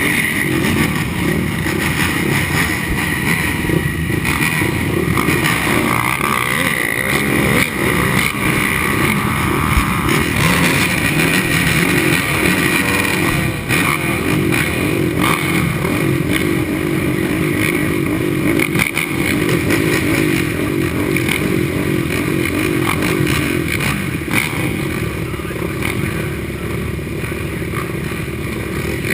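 Racing ATV engine running hard under full race load, its pitch rising and falling continually as the throttle opens and closes.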